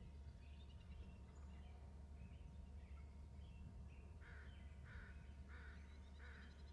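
A bird giving four harsh calls in a row, about two-thirds of a second apart, in the second half, over faint chirping of small birds and a low steady hum.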